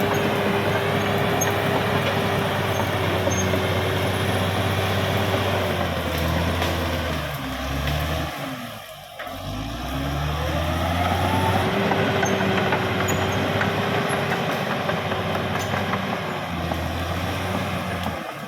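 Caterpillar D6R XL bulldozer's diesel engine running steadily; it dips briefly about halfway through, then picks up again.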